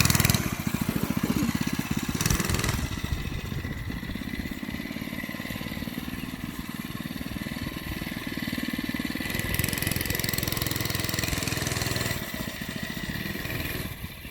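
Mini bike's small engine running, loud at first with a burst of revving about two seconds in, then holding a steadier note before falling away near the end.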